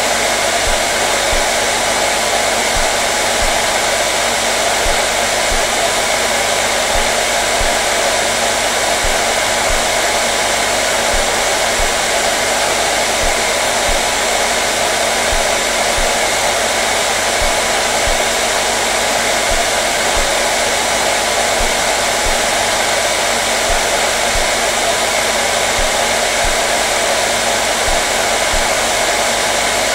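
Hair dryer running continuously with a steady, even blowing hiss and a faint motor hum, unchanging throughout.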